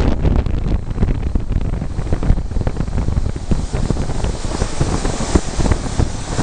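Wind buffeting the microphone aboard a moving train, over a deep running rumble with many quick clicks and rattles from the wheels and carriage.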